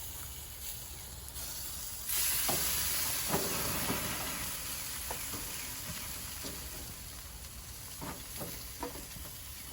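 Pork ribs sizzling on a hot propane grill: a hiss that starts suddenly about two seconds in and slowly dies down, with a few light clicks and knocks.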